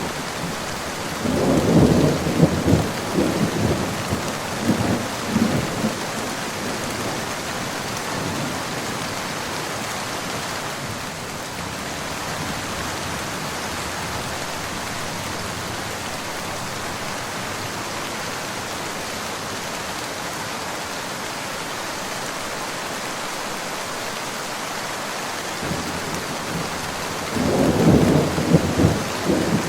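Steady rain falling, with two rolls of thunder: one starting about a second in and rumbling for several seconds, another starting near the end.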